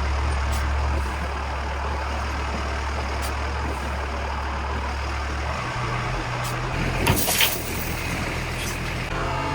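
Military FMTV truck's diesel engine running steadily, its note stepping higher a little past halfway. About two-thirds in comes a brief sharp noise, the loudest moment.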